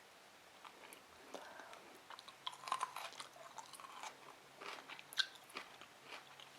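A person chewing pickled sushi ginger, close to the microphone. Small, irregular crunching and clicking bites start about a second in.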